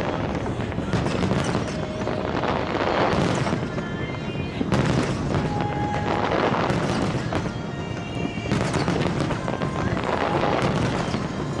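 Aerial fireworks bursting and crackling continuously, with sharp bangs about five seconds in and again after eight seconds.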